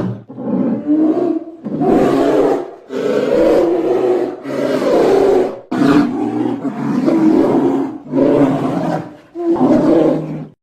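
A bear growling and roaring in a series of loud, rough calls, each about a second long with brief breaks between them.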